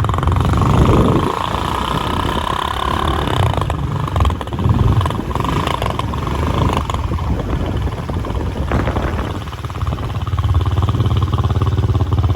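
A motor engine running steadily with a low rumble, growing louder about ten seconds in.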